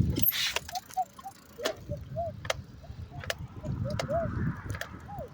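Bicycle riding sounds: a low rumble of wind and road with scattered sharp clicks and many short, repeated squeaks.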